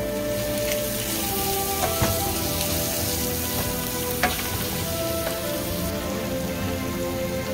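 Onions and ground spices sizzling in hot oil in a pan, stirred with a wooden spatula, with two sharp taps of the spatula against the pan about two and four seconds in. Soft background music with held notes runs underneath.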